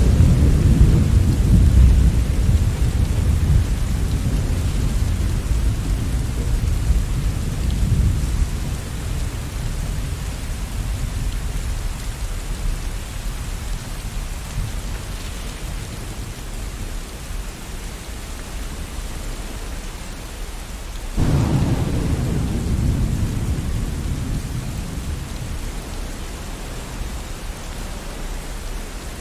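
Steady rain with thunder. A low rumble of thunder fades away over the first several seconds, and a second thunderclap starts suddenly about two-thirds of the way through, then slowly rolls off.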